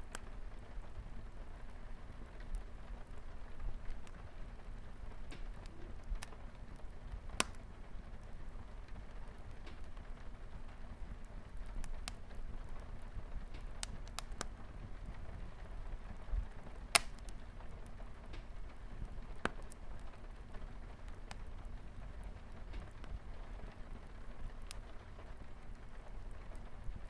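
Wood fire crackling with scattered sharp pops, one louder pop a little past the middle, over the steady hiss of light rain on a window.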